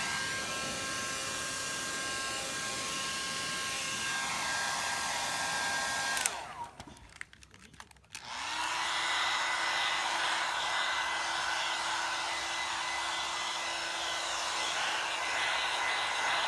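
Hair dryer blowing steadily. About six seconds in it is switched off and its whine falls away; about two seconds later it is switched back on and runs steadily again.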